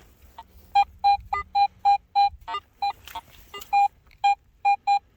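Metal detector target beeps: short electronic tones, about three a second, mostly at one steady pitch with a few higher blips, signalling metal in the ground.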